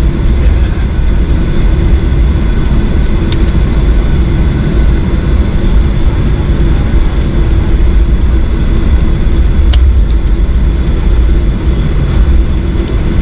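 Cabin noise inside a Boeing 737-800 in flight: its CFM56 engines and the airflow make a steady, loud low rumble with a faint steady hum over it, and a few faint clicks.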